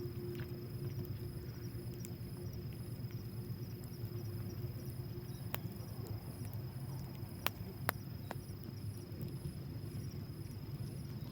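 Insects chirping outdoors, a steady high whine with a pulsing chirp about twice a second, over a low steady rumble. A few sharp cracks stand out about five and a half and eight seconds in.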